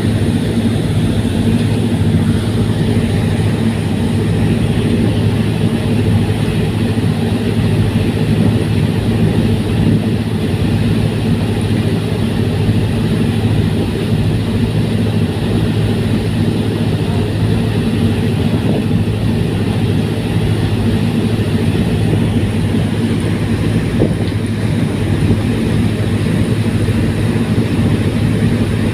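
Fast ferry's engines running steadily at cruising speed: a loud, unbroken drone with a deep hum.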